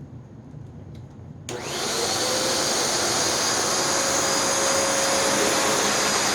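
Hoover NanoLite vacuum cleaner's motor switched on about a second and a half in, spinning up over half a second, then running steadily with a loud rush of air and a high whine. The brush roll is not spinning.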